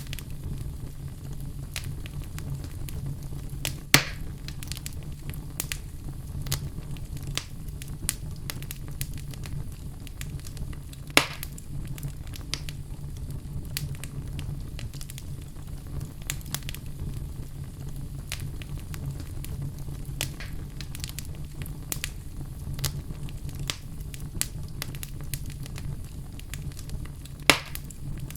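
Wood fire burning in a fireplace: a steady low rumble of flame with frequent small crackles and three louder pops, about four, eleven and twenty-seven seconds in.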